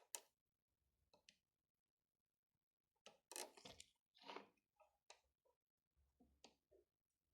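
Near silence with a few faint, scattered clicks and short rustles, a little louder about three to four and a half seconds in.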